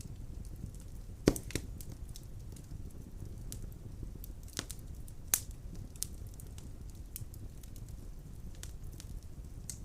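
Wood fire burning in a fireplace: a steady low rumble of the flames with sharp, irregular crackles and pops from the burning logs, the loudest about a second in.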